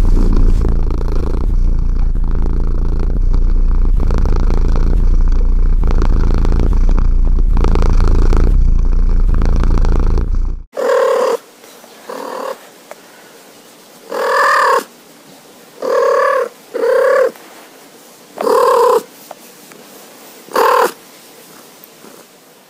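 Domestic cat purring, loud and steady, for about the first ten seconds. It cuts off suddenly, and a cat then gives about seven short, pitched trill calls spaced a second or two apart.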